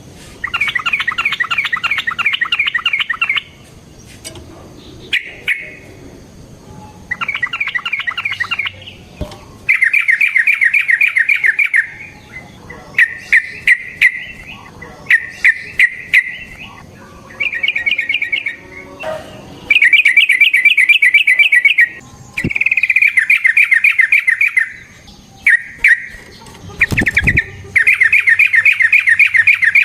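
Yellow-vented bulbul (trucukan) singing in long, rapid-fire phrases of bubbling notes, each one to three seconds long, repeated after short pauses. This is the chattering song used as a lure to provoke other bulbuls. A single low knock comes in near the end.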